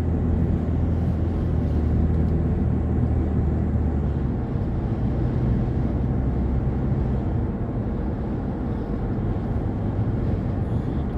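A car driving along a road: a steady low rumble of road, engine and wind noise.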